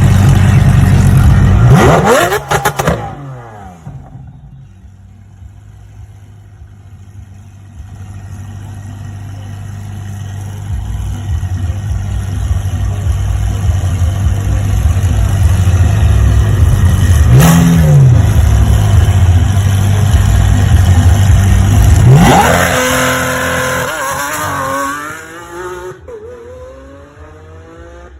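Lamborghini Aventador SVJ's naturally aspirated V12 revving loudly. It then settles to a steady low note that slowly builds in level, with one short rev blip. About three quarters of the way through, the pitch climbs sharply as the car launches and pulls away through several rising upshifts, fading as it goes.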